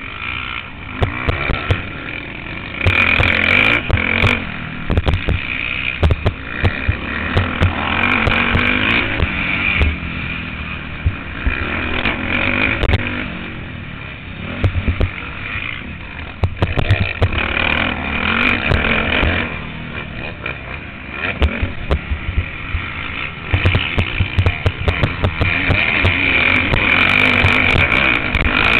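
Motocross bike engine heard from an on-board camera, revving up hard and dropping off again over and over as the throttle is opened and shut around the track. Sharp knocks and thumps from the bike over the rough ground come in between.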